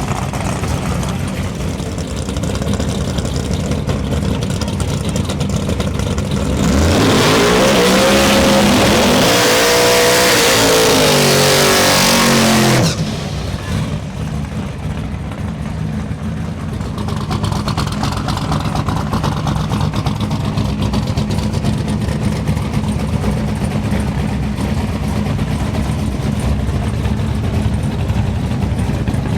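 Drag-racing engine rumbling, then a full-throttle pass about seven seconds in: the engine pitch climbs and bends for about six seconds at much higher volume before cutting off suddenly, and a steadier lower engine rumble carries on afterwards.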